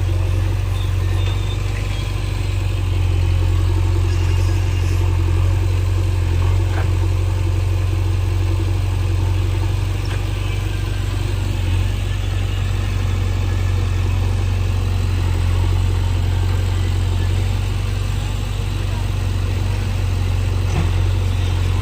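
JCB backhoe loader's diesel engine running steadily with a strong low hum.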